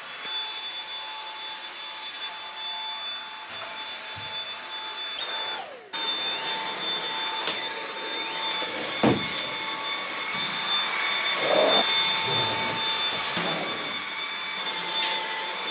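Dyson cordless stick vacuum running with a steady high-pitched whine as it vacuums the floor. It cuts out for a moment about six seconds in, then runs on, with a single knock about nine seconds in.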